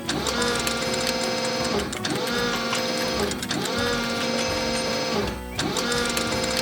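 Machine-whir sound effect, like a small motor, repeating about four times, roughly every second and a half to two seconds. Each repeat rises quickly in pitch, then holds a steady whine before cutting off briefly.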